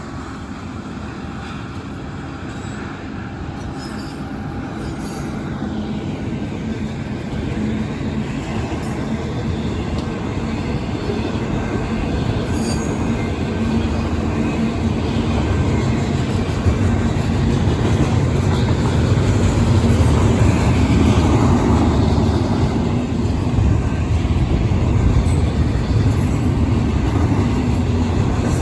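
Union Pacific intermodal freight train rolling by, a steady low rumble that grows gradually louder.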